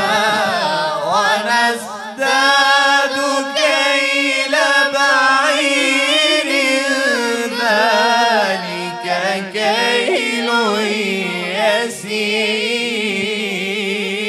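Melodic Quran recitation: a single voice holding long, drawn-out notes that waver and turn in pitch, with short breaths between phrases about two, nine and twelve seconds in.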